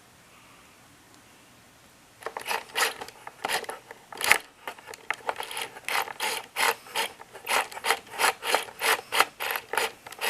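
WPL D12 RC mini truck's drivetrain making its abnormal noise: a rasping, ratchet-like grinding in quick uneven bursts, two or three a second, starting about two seconds in.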